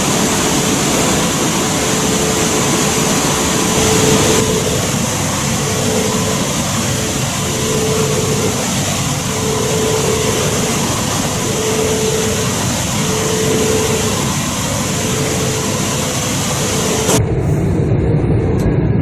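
Shinkansen running at speed, heard from inside the passenger car: a steady rushing noise with a wavering hum. About 17 seconds in, the sound changes abruptly to a duller, lower rumble.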